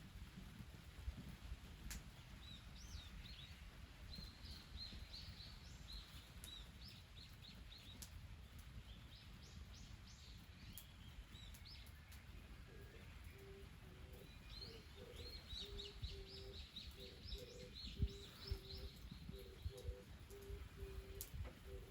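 Faint outdoor ambience: small birds chirping in quick runs of high notes, in two spells, over a steady low rumble. About halfway through a low note starts repeating a couple of times a second, and a few sharp clicks stand out near the end.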